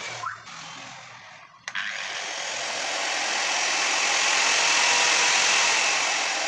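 A 7-inch angle grinder's motor is switched on with a click about two seconds in. It runs up to a loud, steady whirr, which is the test run of the grinder with its newly fitted armature.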